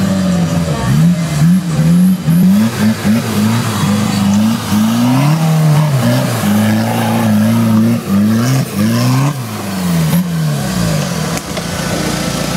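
Modified Suzuki Samurai 4x4's engine being revved up and down again and again, with short blips and one longer held rev, as the truck crawls over rough ground on a trial section. It settles to a steady low run near the end.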